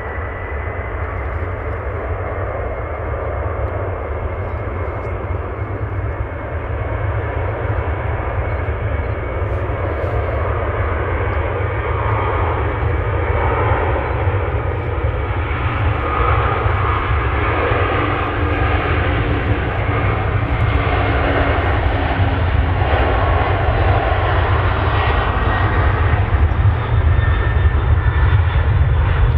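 Jet airliner engines, a steady roar with a faint high whine, slowly growing louder.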